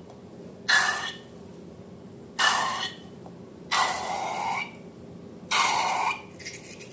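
Slime squelching out of a balloon as it is squeezed: four wet, hissing bursts, each half a second to a second long, coming about every one and a half to two seconds.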